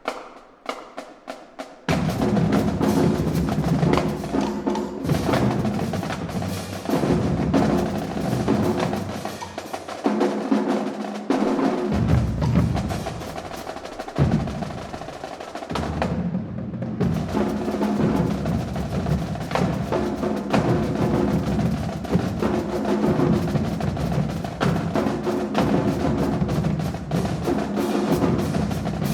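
High school marching drumline playing a cadence: a few sharp stick clicks, then the full line of snare and bass drums comes in loud about two seconds in, with drum rolls. The cymbals and high end briefly drop out a little past the middle.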